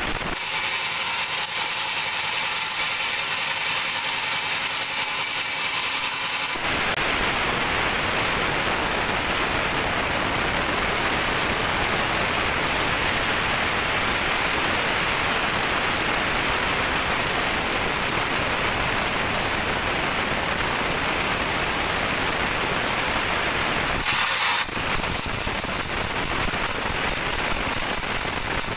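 Band sawmill running and sawing a teak log: a loud, steady hissing noise. From about seven seconds in it turns fuller and lower, and it thins back to a higher hiss with a brief break near the end.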